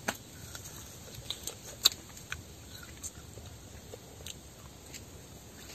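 Scattered crisp clicks and crunches of a child biting and chewing sour starfruit, irregular, with one sharper click about two seconds in.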